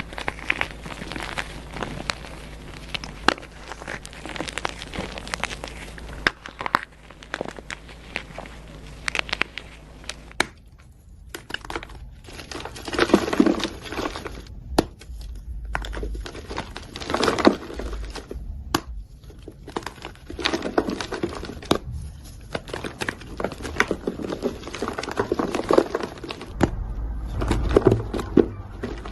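Dyed gym chalk being crushed and crumbled, with dry, crisp crunching and crackling: a dense run of crackles at first, then separate crunches every second or two.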